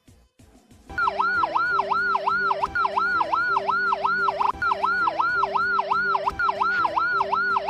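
Ambulance siren in a fast up-and-down yelp, about three sweeps a second, starting about a second in. This is the pattern used in traffic or at a crossing, to make cars move aside and let the ambulance through.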